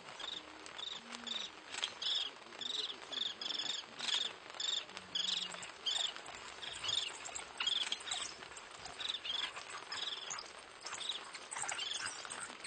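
Repeated short, high-pitched animal chirps, roughly two a second, over a faint background hiss.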